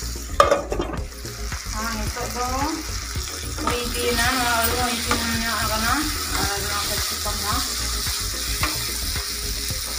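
Soya chunks and vegetables sizzling in hot oil in a nonstick wok while being stirred with a wooden spatula, with a sharp knock about half a second in.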